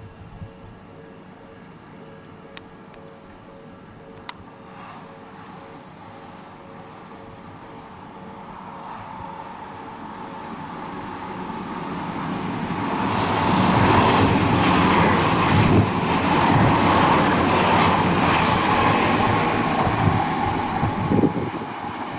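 Odakyu 30000 series EXEα electric limited express approaching and running through the station without stopping. Its rumble and rail clatter grow steadily from a few seconds in, are loudest for most of the second half, and begin to fade near the end.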